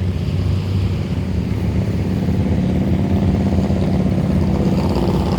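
Motorcycle engine running steadily with a fast low throb, getting a little louder near the end.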